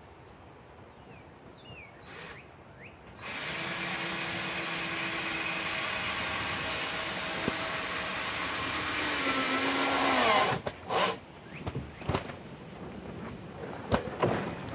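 Electric drill motor running steadily for about seven seconds, its pitch sagging near the end before it stops suddenly, followed by a few sharp knocks.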